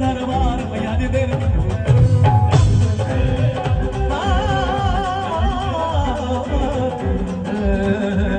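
A live band plays a Punjabi song: a wavering melody line over a steady drum beat, with a loud hit about two and a half seconds in.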